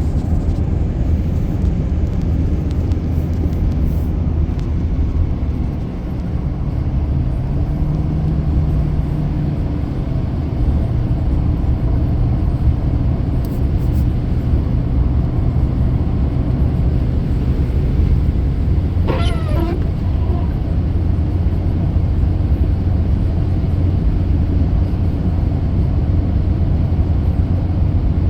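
Car cabin noise while driving: a steady low engine and road rumble. About two-thirds of the way through there is one short, wavering high-pitched sound.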